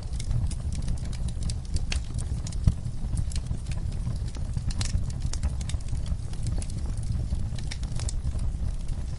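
Wood fire crackling in a fireplace: irregular sharp snaps and pops over a steady low rumble, with one louder pop a little under three seconds in.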